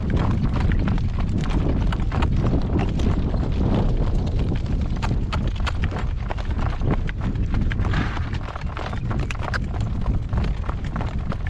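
A horse's hooves clip-clopping on the road as it pulls a harness cart, over a heavy rumble of strong wind on the microphone.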